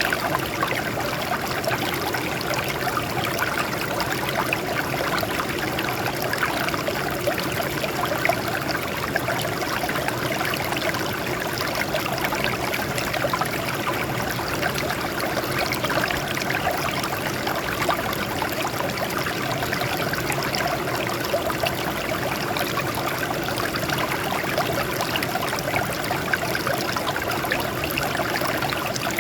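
Water flowing and splashing steadily over rocks: a small stream running with a constant trickling rush.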